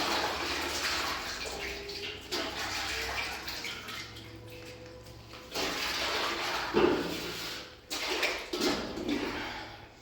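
Rushing water, in several surges that start and stop abruptly.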